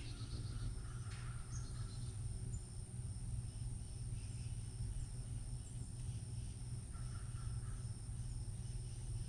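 Outdoor ambience: a steady high-pitched insect trill over a constant low rumble, with a few faint, brief bird chirps.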